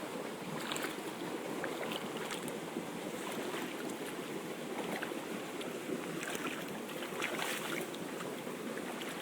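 Floodwater flowing steadily, a continuous rushing noise with faint small splashes through it.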